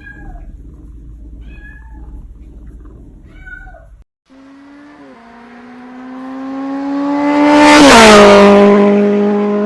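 A cat meows three times over a low hum. After a sudden cut, a car engine comes closer with its pitch slowly rising, passes loudly about eight seconds in, and drops in pitch as it moves away.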